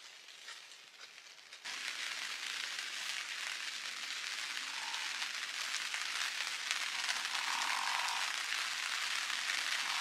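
Heavy downpour on a tent, heard from inside: a steady, even hiss that comes in abruptly about two seconds in and builds slightly. Before it, a few faint clicks of tableware.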